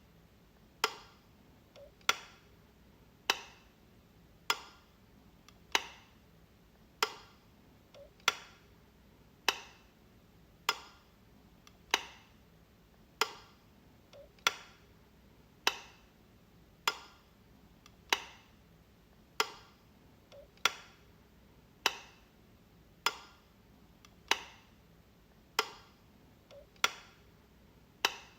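A light switch clicking, one sharp click about every second and a quarter, at an even pace throughout.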